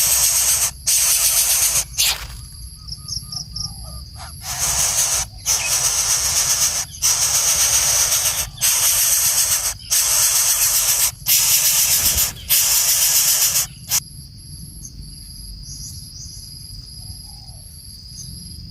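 Coucal hissing in loud repeated bursts, each about a second long with short gaps between, and a longer lull in the middle.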